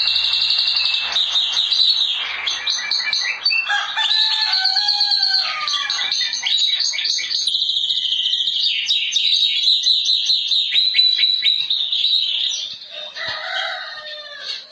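Many small songbirds chirping and twittering without a break. A rooster crows about four seconds in, and a lower fowl call comes near the end.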